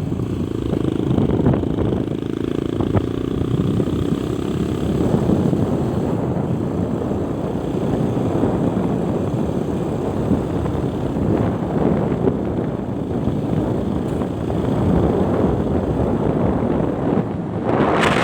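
Motorcycle running on the move, with wind rushing over the microphone; a steady engine hum stands out for the first five seconds or so.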